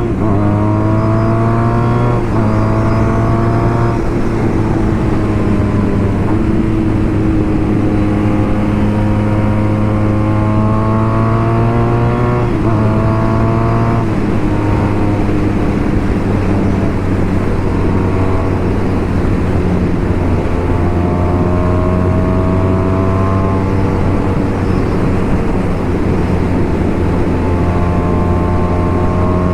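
BMW R nineT Racer's boxer twin engine through a BOS full exhaust with Boxercup muffler, riding and pulling hard through the gears. The pitch climbs with each gear and drops sharply at each shift, several times over.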